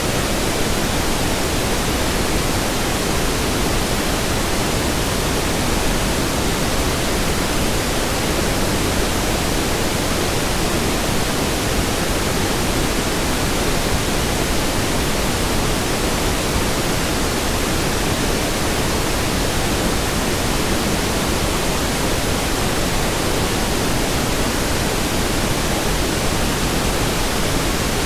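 Steady pink noise: an even, unchanging hiss across the whole range, fuller in the lows than white noise.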